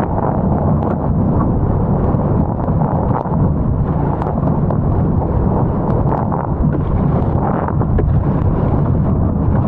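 Strong wind buffeting a camera microphone: a loud, steady rumble.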